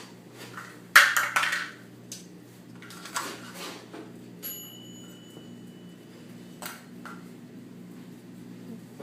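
Hard objects clattering and knocking, loudest about a second in, with a metallic ping that rings for about a second and a half from around four and a half seconds, over a steady low hum.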